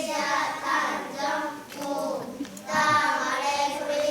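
A group of young children singing together in unison, with a short break in the singing about halfway through.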